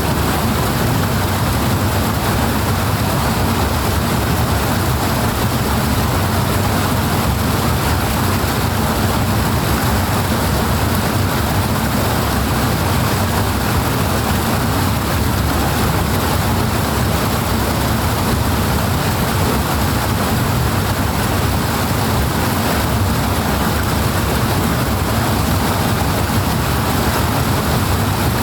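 Powerful rushing water, a loud, steady, unbroken rush with a heavy low rumble and no distinct splashes or events.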